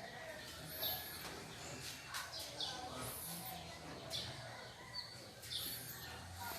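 A bird calling: short, high chirps repeated about every two seconds over faint background hum.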